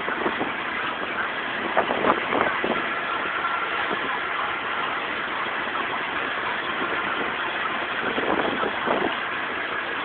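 Scania 113 truck's diesel engine running steadily, with a few brief knocks and rattles over it.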